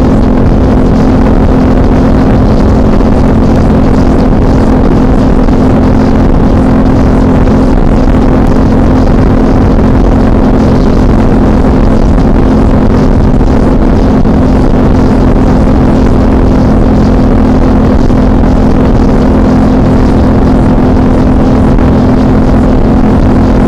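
Suzuki V-Strom DL650's V-twin engine running at a steady cruising speed, one constant drone with no change in pitch, under a heavy rush of wind noise.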